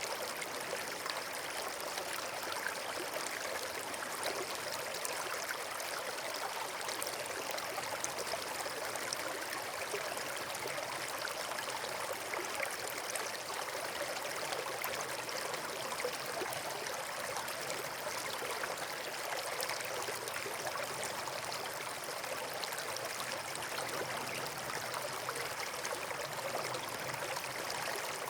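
Steady rush of flowing water, like a stream or small waterfall: an even, unbroken wash of noise with no change in level.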